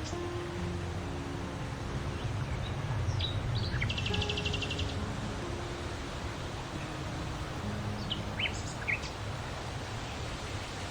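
Songbirds chirping now and then, with a fast trill of rapidly repeated notes about four seconds in, over a steady low outdoor rumble.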